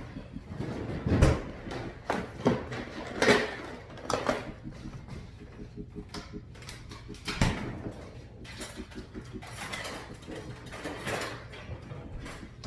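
Kitchen clatter: dishes and utensils knocking against counters and each other in a string of separate knocks, the loudest about a second in.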